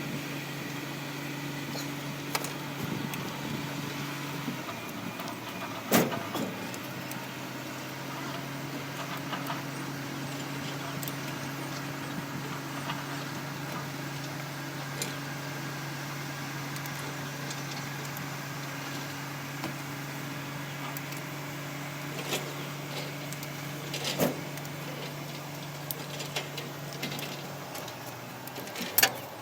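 Komatsu PC-200 excavator's diesel engine running at a steady speed, its pitch dropping slightly about four and a half seconds in. A few sharp metallic knocks come over it, the loudest about six seconds in and near the end.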